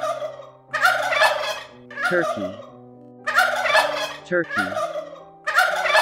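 White domestic turkey tom gobbling: loud, rapid, rattling gobbles about a second long, repeated about every two and a half seconds.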